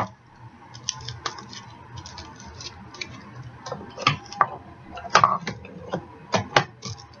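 Aluminium foil crinkling and crackling in irregular little clicks as a foil-wrapped, taped bottle is handled, with a few sharper crackles in the second half.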